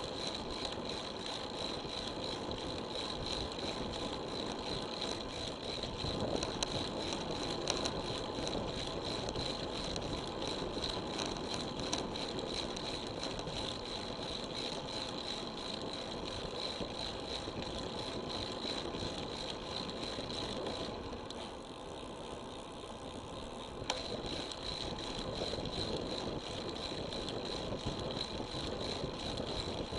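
Road bicycle riding heard through an action camera: steady tyre-on-road and wind noise with rattling, and a short quieter stretch about two-thirds of the way through.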